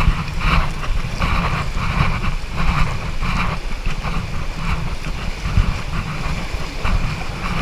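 Wind buffeting the microphone over rushing river water, with splashes swelling about once a second as paddles dig in on a forward paddling command in a whitewater raft.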